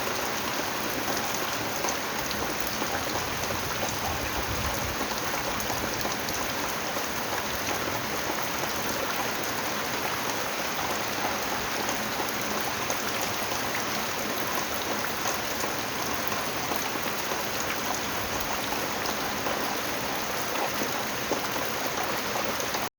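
Steady rain falling, a dense, even patter of drops, which cuts off abruptly at the very end.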